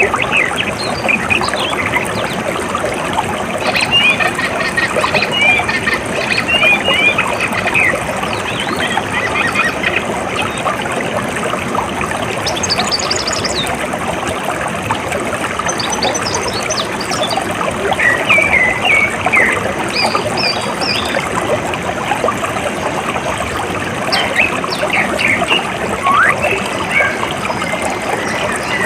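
Running water flowing steadily, with birds chirping in short scattered calls over it.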